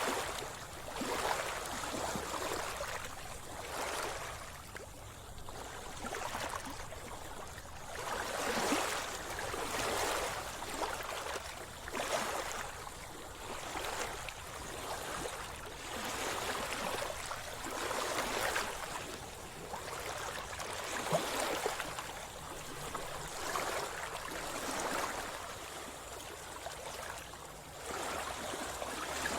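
Sea water splashing and sloshing in repeated swells, about every one to two seconds, with small crackling splashes.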